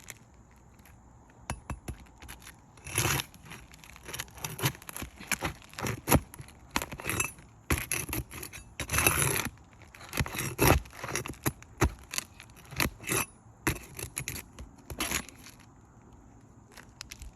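Irregular scraping and clicking as a tool works under 3-tab asphalt shingles to lift them and pull out roofing nails, with longer scrapes about three seconds and nine seconds in.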